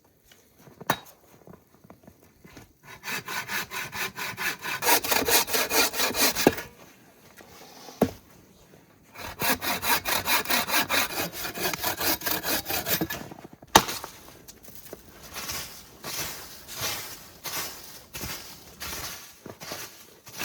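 Hand saw cutting through wood in quick back-and-forth strokes, in two loud bouts with a short pause between. After a sharp knock, lighter and quieter strokes follow.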